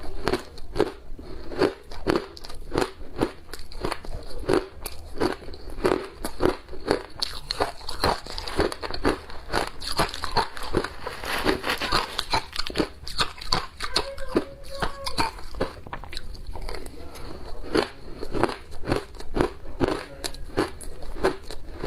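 Ice being bitten and chewed close to the microphone: a long run of crisp crunches, at times several a second, growing denser in the middle.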